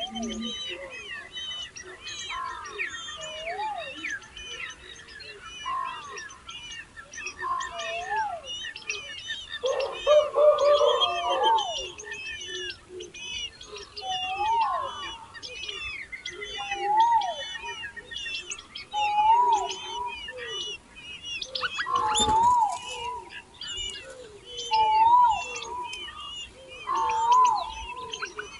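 Many birds chirping in quick, overlapping high chirps, with a lower rising-and-falling call repeating about every two seconds. A single sharp knock comes about two-thirds of the way through.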